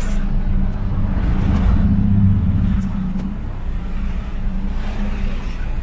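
Car engine running with a steady low hum, swelling about two seconds in and easing off after.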